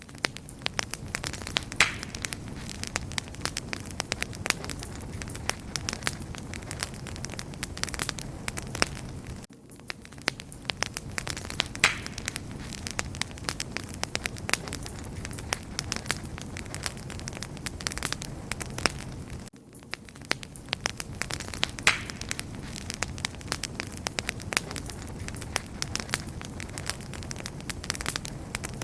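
Wood campfire crackling steadily, many sharp snaps over a low rumble of flames. The sound is a recording of about ten seconds that loops, with a brief dip in level at each join.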